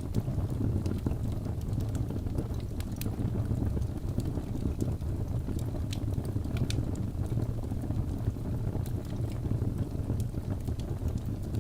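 Wood fire of burning logs in a fireplace: a steady low rushing roar with scattered sharp crackles and pops.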